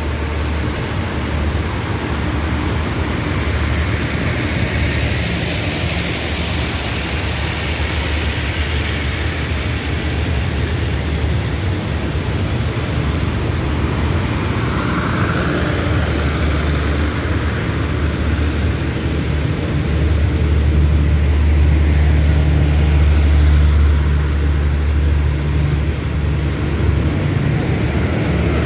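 Diesel passenger train standing at the platform, its engines running with a steady low rumble that swells a little about two-thirds of the way in.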